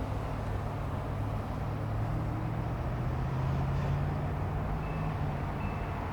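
A vehicle engine running steadily, a low hum whose pitch rises slightly about two seconds in and then holds, with a few faint short high tones near the end.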